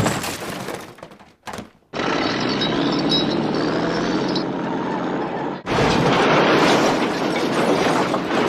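Cartoon crash sound effects: a sharp smash at the start that rings away, a brief knock, then two long stretches of loud, dense crashing and breaking noise with a short gap between them.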